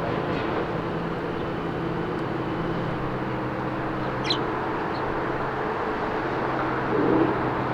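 Steady road traffic noise with a low hum, and one short high bird chirp about four seconds in.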